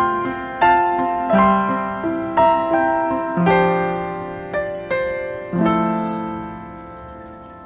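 Background piano music: slow chords of struck notes that ring and fade, the last chord held and dying away near the end.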